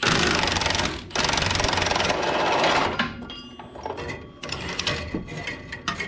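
A power tool runs in two bursts with a fast mechanical rattle, first about a second, then about two seconds. These are followed by scattered clicks and clanks of metal and tools.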